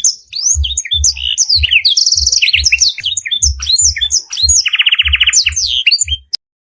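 Canary singing a fast, varied song laced with blackthroat (black-throated canary) phrases: quick chirps and glides with a rapid trill about five seconds in. The song cuts off suddenly near the end.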